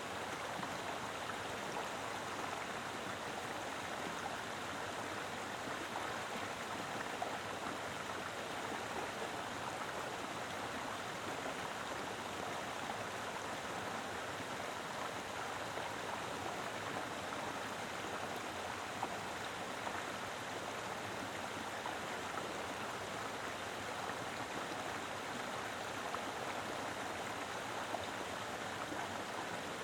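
A mountain river flowing, a steady rushing and splashing of water with small spikes of splashes.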